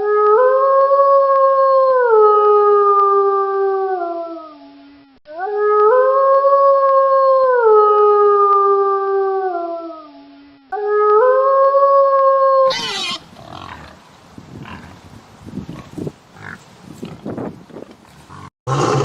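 An animal howling: three long howls, each held and then stepping down in pitch, the third cut short after about two seconds. Then a quieter stretch of scattered rough noise.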